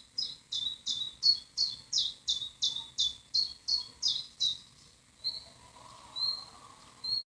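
A bird singing a rapid run of repeated high, down-slurred notes, about three a second. The run stops about four and a half seconds in, and a few softer, level high whistles follow.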